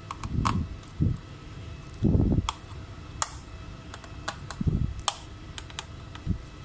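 Scattered light clicks and taps with about half a dozen short, dull knocks, like small tools and parts being handled on a repair bench.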